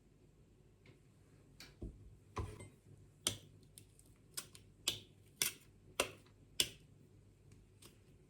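A series of about eight sharp light clicks and taps, coming roughly two a second in the middle of the run, with a couple of duller knocks near the start.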